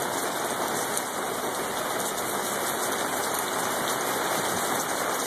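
Heavy rain pouring steadily onto a wet street and parked cars: a dense, even hiss with no let-up.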